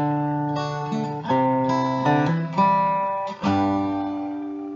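Acoustic guitar strumming the closing chords of a song, with a few strokes in a row. About three and a half seconds in, a final chord is strummed and left ringing as it fades.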